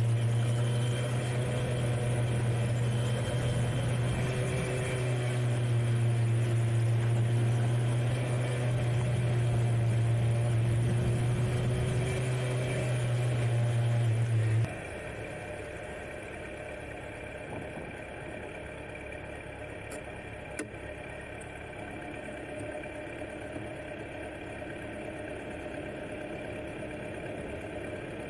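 Kawasaki Z900 inline-four motorcycle engine running with a loud, steady low hum. About fifteen seconds in the sound drops abruptly to a quieter, duller engine sound.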